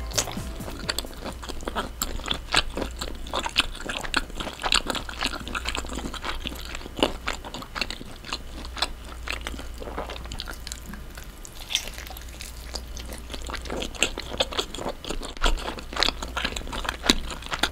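Close-miked chewing of air-fried whole pork belly: a steady run of crisp, irregular crunches and clicks from the bitten meat and skin.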